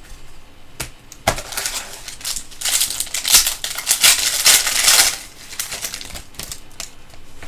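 A trading-card pack wrapper being torn open and crinkled by hand. It starts with a couple of sharp clicks, then crackles for about four seconds and dies down.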